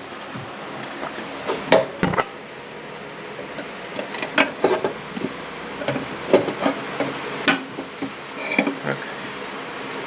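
Irregular light knocks, clicks and clanks of metal tools being handled and set down, a dozen or so scattered hits.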